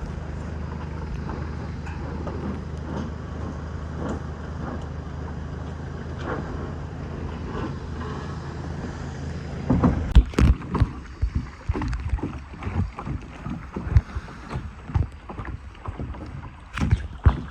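Kayak going down a river: a steady rush of water and wind, then from about ten seconds in a run of irregular splashes and knocks as the boat and paddle hit the water.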